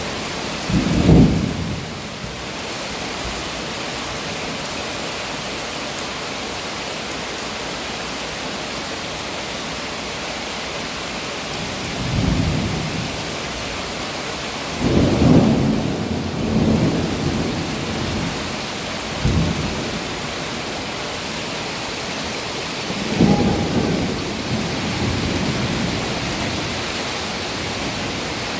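Thunder rolling over a steady downpour: about five separate low rumbles, the loudest about a second in and again about halfway through, with the rain hissing evenly between them.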